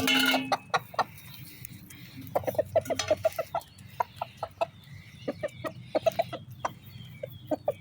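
Chickens clucking in many quick, short clucks while pecking at freshly scattered feed. There is a louder call at the very start and thin, high peeps near the end.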